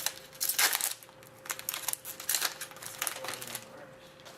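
Hockey trading cards being handled and slid through the hands, giving several short rustling, crinkling sounds.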